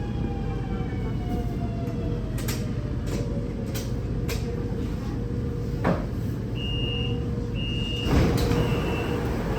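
Metro train standing at the platform with a steady hum, a slowly falling whine and a few sharp clicks; from about two-thirds of the way in, the door warning beeps about once a second and a rush of noise comes as the sliding doors move.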